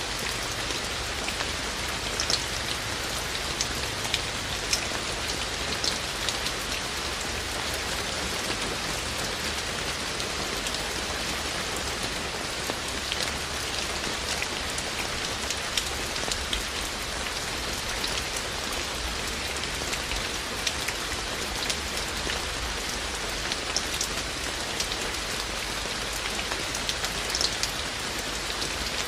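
Steady rain falling, an even hiss with frequent sharp drips and taps of individual raindrops on surfaces.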